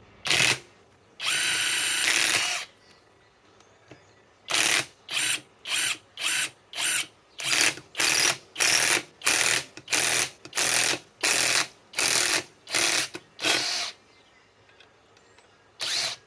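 Cordless impact wrench backing out a lag screw: a short blip, a steady run of about a second and a half, then about sixteen quick trigger pulses, roughly one and a half a second, and one last pulse near the end.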